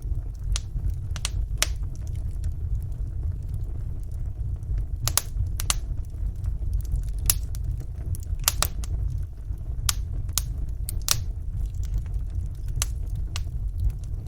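Wood fire burning in a fireplace: a steady low rumble of flames with sharp, irregular crackles and pops, about a dozen of them, clustered more thickly in the middle.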